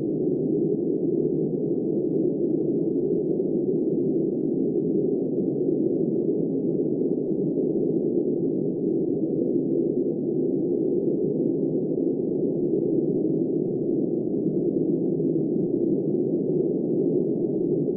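Snowstorm wind rushing steadily, dull and muffled with no hiss or high whistle, an even low roar that never changes.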